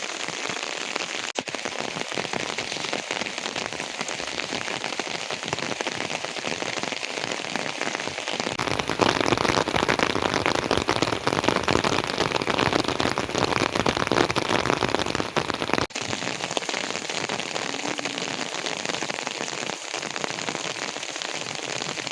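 Steady heavy rain falling. It turns abruptly louder and fuller a little over a third of the way in, then drops back just as suddenly to the earlier level about three-quarters through.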